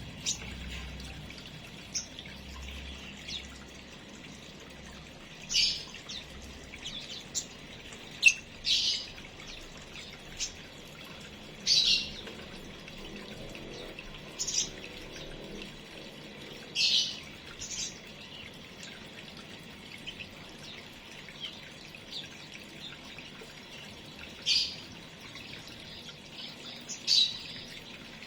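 Small aviary birds chirping: short, sharp high calls every one to three seconds over a steady faint hiss.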